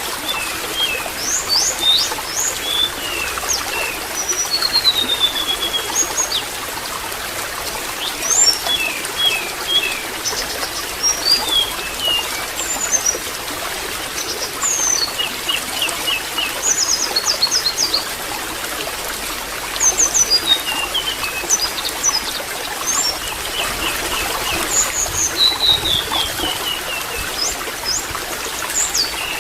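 Water trickling steadily, with small birds chirping throughout in many short, quick, high calls.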